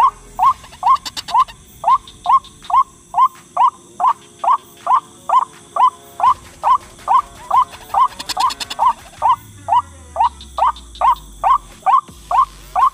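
White-breasted waterhen (ruak-ruak) calling: a very even run of short rising, croaking 'kruak' notes, about three a second, with no break.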